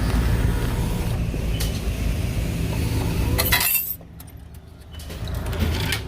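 A car's engine idling with a steady low rumble; a little after three seconds in there is a brief clinking clatter, then the sound goes suddenly muffled and quieter for about a second.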